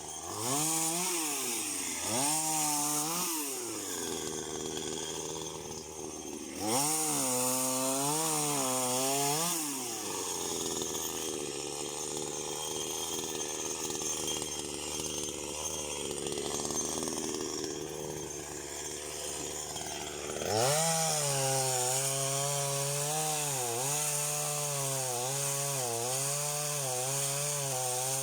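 Small petrol engine of a handheld power tool revving up and down in three bursts, running at a low idle in between.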